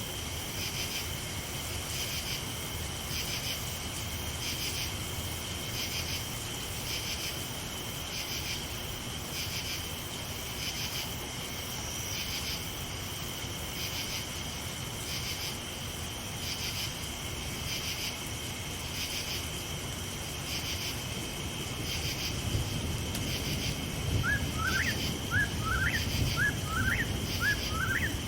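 A night insect chorus trilling steadily, swelling in regular pulses about once a second, over a low rumble that grows louder near the end. In the last few seconds a series of short, quick rising chirps comes in, about two a second.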